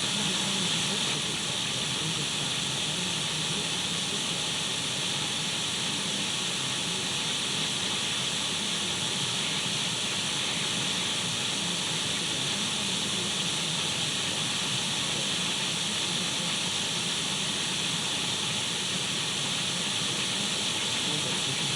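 Untuned radio static: a steady, bright hiss that holds unchanged throughout.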